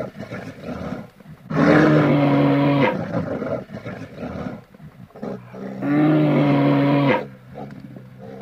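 A large wild animal calling twice, each a long steady low-pitched call of about a second and a half, a few seconds apart.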